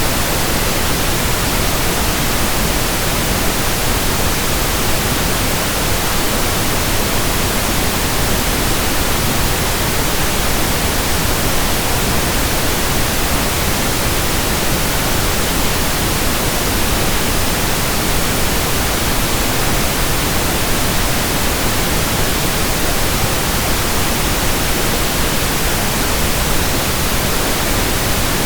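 Steady pink noise: an even, unbroken hiss across the whole range, with no change in level.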